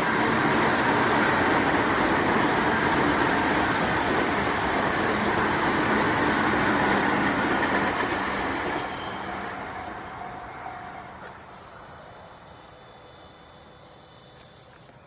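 Tokyu 5050 series 4000-subseries electric train passing at speed, a steady loud rush of wheels on rail. It stays loud for about eight seconds, then fades away as the train recedes.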